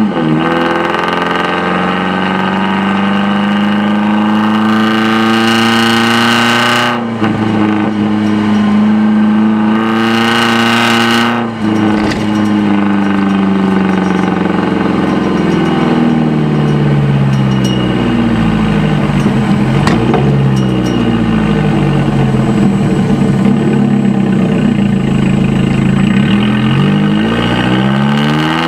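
Nissan 240SX's KA24DE four-cylinder engine running through its exhaust, held at steady revs for the first several seconds, stepping up in pitch about seven seconds in, then with revs slowly rising and falling through the rest.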